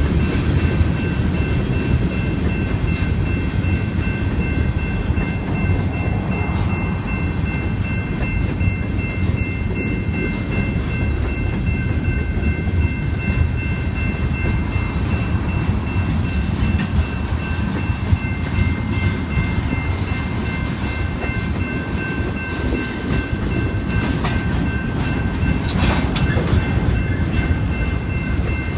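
Freight train cars rolling past, a steady heavy rumble with a steady high-pitched whine held over it.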